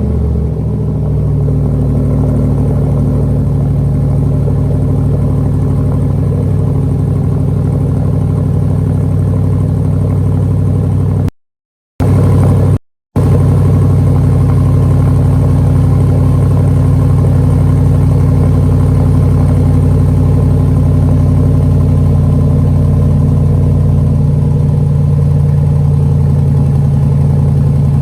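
C8 Corvette V8 idling steadily through a prototype true-dual cat-back exhaust with two mufflers, on factory manifolds and catalytic converters. The sound cuts out briefly twice a little past the middle.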